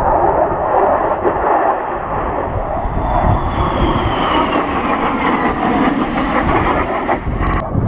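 Military jet engine running loud and steady as the jet flies over, with a whine that falls in pitch as it passes. A short sharp click near the end.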